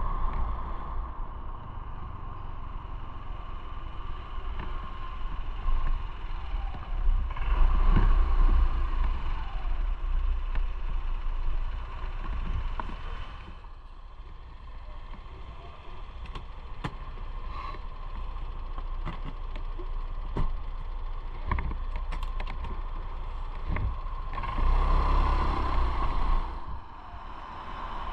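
Motorcycle running while being ridden, with wind noise. It swells louder twice, about a quarter of the way in and again near the end, and there are scattered light clicks.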